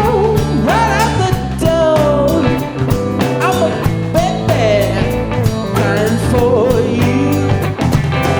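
A band playing a full-band jam, with a drum kit keeping a steady beat under held bass notes and a lead melody that bends and slides in pitch.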